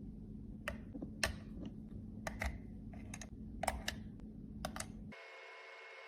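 About a dozen sharp, irregular clicks and taps of small hard objects being handled, like tools or plastic makeup cases, over a low hum. About five seconds in the sound cuts off to a faint, steady hum.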